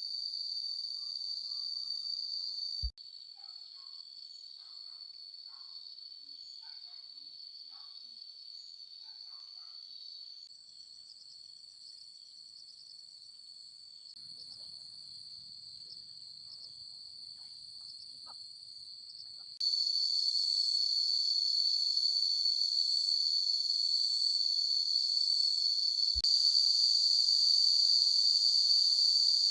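Chorus of insects: a steady high-pitched trill that drops in loudness about three seconds in, then rises sharply about twenty seconds in and again near the end.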